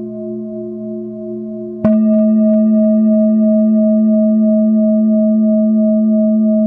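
Singing bowls ringing with a slow pulsing wobble in their tones. About two seconds in, a bowl is struck and a louder, lower tone rings on steadily.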